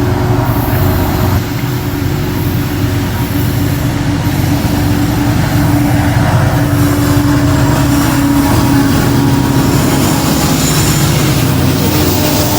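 CSX diesel freight locomotives running past close by, a loud steady engine rumble with a held tone.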